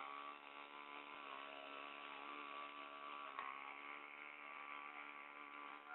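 Small engine running faintly at a steady, even speed.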